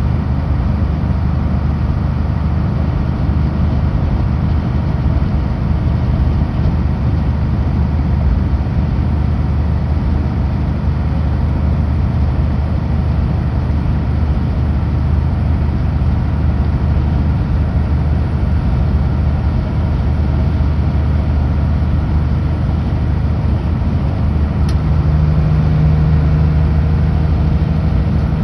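Kenworth W900L semi-truck's diesel engine running steadily while driving, heard from inside the cab, with road noise underneath. About three seconds before the end the engine hum grows a little stronger and louder.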